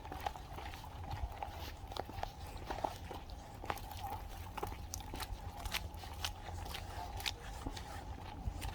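Footsteps crunching in fresh snow: irregular soft crunches and crackles, a few each second, over a faint steady background drone.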